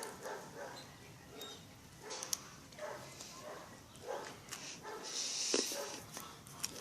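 Small fledgling birds chirping in short, scattered calls, with a louder noisy burst about five seconds in.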